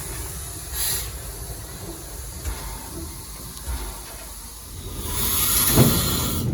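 Steam locomotive hissing steam: a short hiss about a second in, then a louder, longer hiss from about five seconds in with a low thud near the end.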